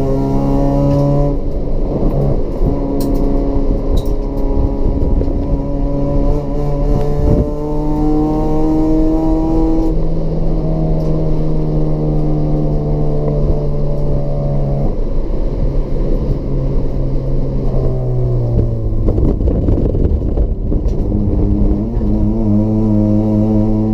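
Toyota Etios race car's 1.5-litre petrol engine with free-flow exhaust running hard, the note climbing in long pulls and dropping in steps at the gear changes. Late on it slows and eases off, with a short rough patch about 19 seconds in before it settles and pulls again.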